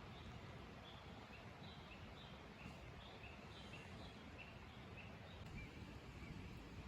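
Faint, repeated short bird chirps, two or three a second, over a low steady outdoor background hum.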